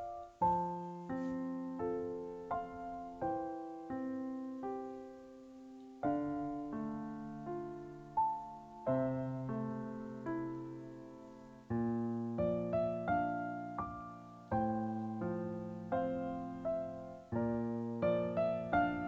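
Background piano music: slow chords and melody notes, each struck and left to fade.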